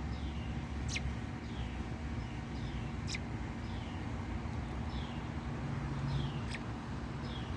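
Robin fledgling giving short, high chirps that slide downward, repeated about once a second, with a few sharp ticks in between. A steady low rumble runs underneath.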